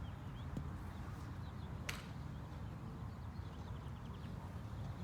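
Golf club striking a ball once: a single sharp click about two seconds in, over a steady low background rumble.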